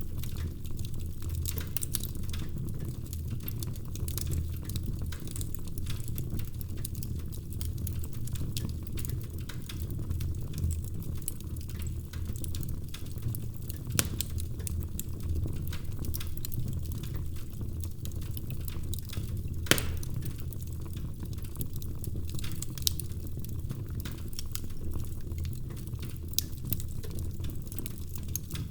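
Wood fire burning in a fireplace: a steady low rumble of flames with frequent small crackles and pops, two sharper pops about halfway through.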